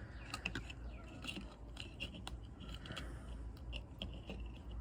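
Faint, scattered clicks and scraping from a small hand tool prying at the plastic parts of a scale-model car kit, working to free a metal axle.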